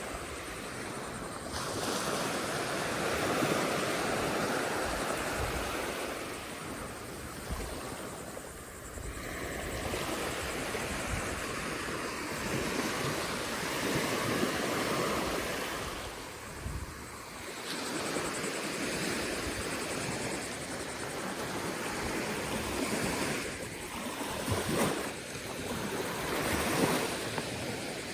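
Ocean surf breaking and washing up the shore, the hiss swelling and falling back about every seven to eight seconds, with wind rumbling on the microphone.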